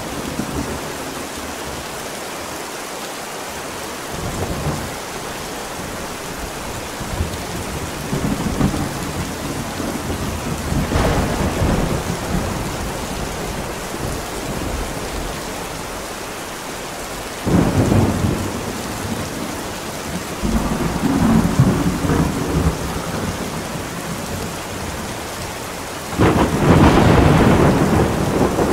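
Steady heavy rain with repeated rolls of thunder rumbling over it. The loudest and longest roll comes about two seconds before the end, after a sharper one about three-quarters of the way through.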